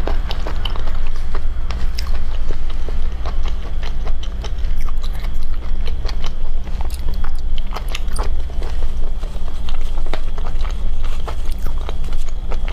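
Close-miked chewing of cooked squid: a rapid string of wet mouth clicks and smacks, over a steady low hum.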